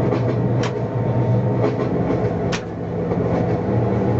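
Locomotive simulator's recorded diesel train sound through speakers: a steady low engine drone, with two sharp clicks about half a second in and again about two and a half seconds in.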